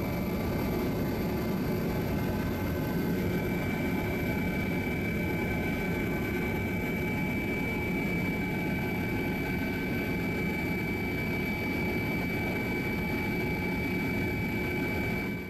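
Steady engine and rotor noise heard from inside a news helicopter: a constant rumble with a steady high whine over it, which grows stronger about three seconds in.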